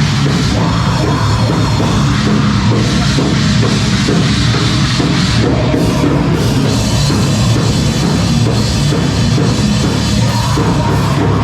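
A live band playing loud, heavy rock music with a pounding drum kit, dense and without a break.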